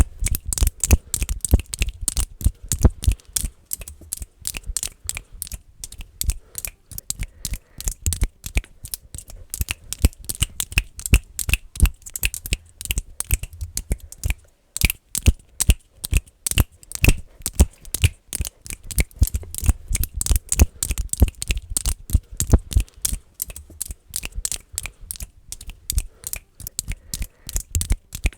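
Fingers clicking close to the microphone, fast and aggressive: rapid, uneven clicks, several a second, with a thud under many of them.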